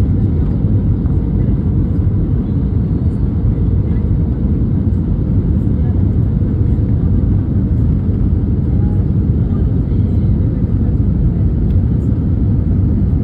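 Airliner cabin noise: a steady, loud low rumble of the jet engines and airflow heard from inside the passenger cabin.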